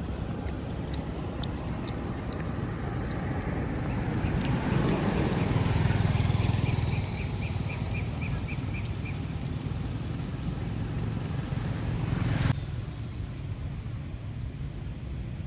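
A motor vehicle passes, its engine rumble growing to loudest about six seconds in and then easing off. A quick run of high chirps, about five a second, sounds over it for a couple of seconds, and the background changes abruptly near the end.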